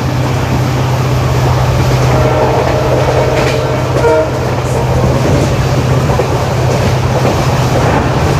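Passenger train running, with the steady low hum of its WDP4D diesel locomotive's EMD two-stroke engine droning under the rumble of wheels on rail.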